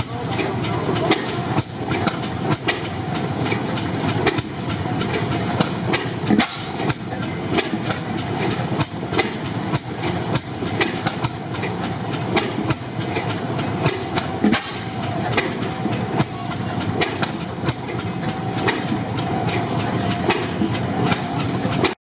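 Antique stationary gas engines running, with a steady run of sharp clicks and knocks over a constant mechanical clatter. The sound cuts off suddenly at the end.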